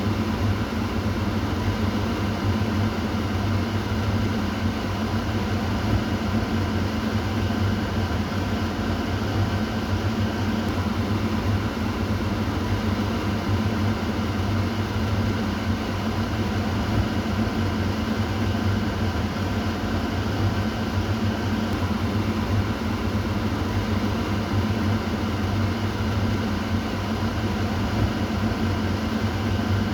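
Kitchen exhaust fan running steadily: an even whirring hum with a low drone and fainter higher tones, unchanging throughout.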